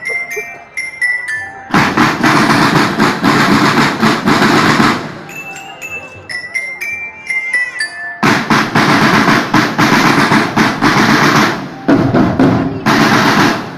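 Marching drumband percussion: short ringing melodic phrases on a glockenspiel alternate with loud passages of snare and bass drums playing fast rolls. The glockenspiel opens and comes back about five seconds in; the drums come in about two seconds in and again about eight seconds in, with a brief break near the end.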